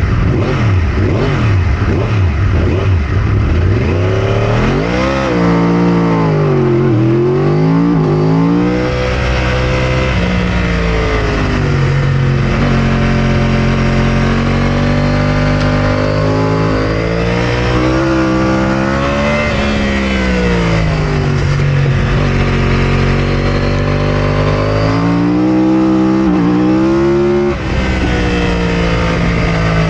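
2009 Yamaha R1 superbike's crossplane inline-four engine at racing revs, its pitch climbing and dropping again and again as it accelerates through the gears and shuts off and downshifts for corners.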